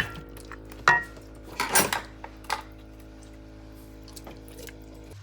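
Metal utensils clinking and knocking against a cooking pot: a sharp knock, then a ringing clink about a second in and a short scraping rattle, over a steady background hum.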